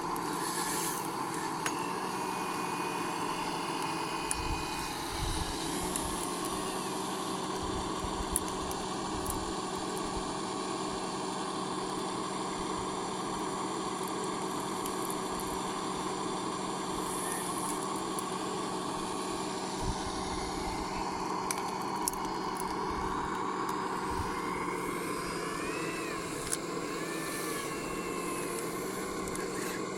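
Electric motors and gear drives of radio-controlled scale construction models running with a steady whine, broken by a few short knocks.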